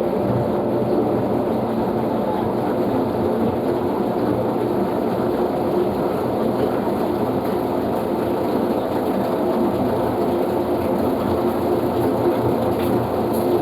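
Panasonic washing machine running a blanket-mode cycle: a steady mechanical rumble with a low hum.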